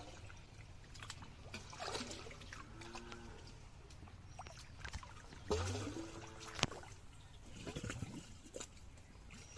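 Shallow water splashing and trickling as it is stirred by hand, with a few sharp knocks and short pitched sounds.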